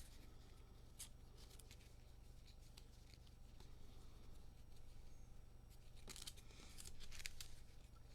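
Faint rustling and light clicks of sleeved trading cards being shuffled and sorted by hand, a little busier near the end, over a steady low hum.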